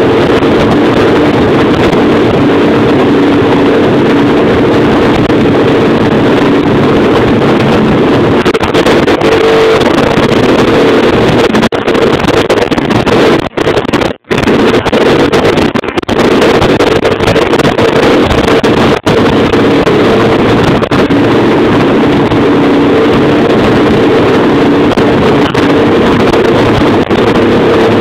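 Baja X250 Extreme dirt bike engine running steadily and loud, after carburetor adjustments that leave it sounding good. The sound drops out for a split second about halfway through.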